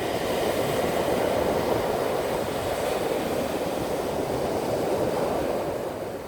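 Sea waves washing onto a stony beach: a steady roar of surf.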